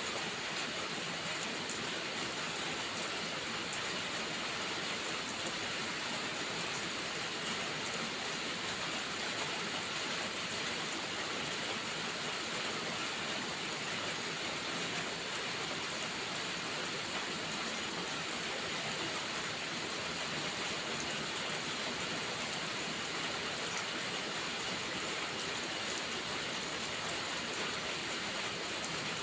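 Steady rain, an even hiss that does not change, with faint scattered ticks of drops.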